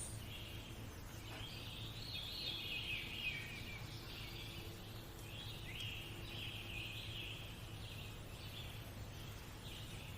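Birds chirping and trilling continuously, many short overlapping calls, over a faint steady low hum.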